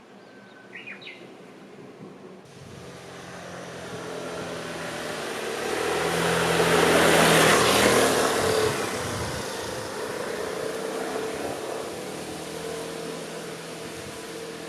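A motor vehicle's engine approaching, passing close about seven and a half seconds in, then fading away. A few bird chirps sound in the first second.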